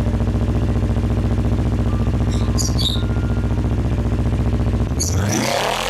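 Kawasaki Ninja 400's parallel-twin engine idling steadily with an even, fast pulse. About five seconds in the steady sound breaks into a sweeping sound that rises and falls.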